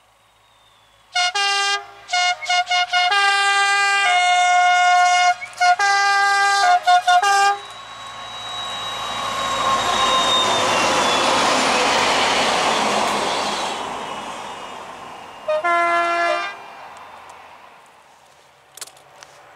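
A diesel-hauled locomotive convoy sounding its two-tone horn in a long string of short toots as it approaches, then passing with a broad running noise that swells and fades. One more two-note toot sounds as it goes by.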